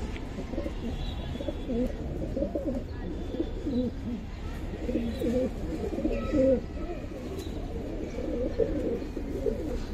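Several domestic pigeons cooing at once, their low, warbling coos overlapping throughout.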